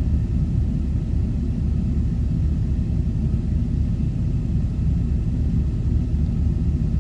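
Vehicle engine idling with the freshly recharged A/C running, heard from inside the cabin as a steady low rumble.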